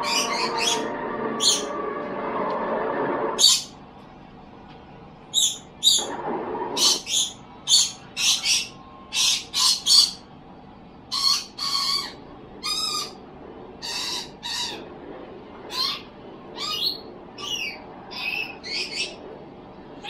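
A bird calling over and over: short, high-pitched chirps and squawks about one or two a second, many of them rising in pitch. For about the first three seconds they sound over a steady layered tone that then stops.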